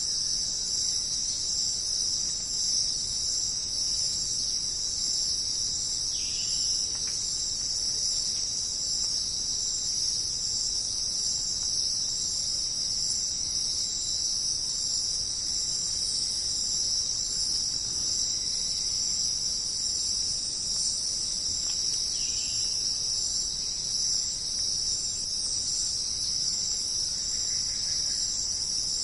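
Dense, steady chorus of crickets chirping, a continuous high-pitched trill, with a few faint, brief bird calls here and there.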